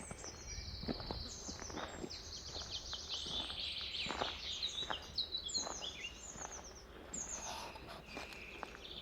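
Several forest songbirds singing at once, with rapid high-pitched trills and chirps overlapping throughout. Soft footsteps on a forest path fall about once a second beneath them, over a low steady rumble.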